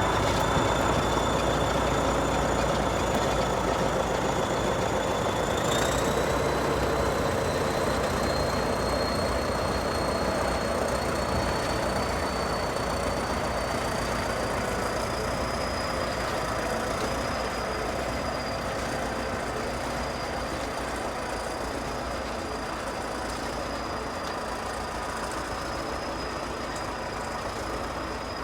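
Heavy Soviet diesel bulldozer working, the engine running steadily under load with a high whine that steps up in pitch about six seconds in and keeps climbing slowly; the sound fades gradually.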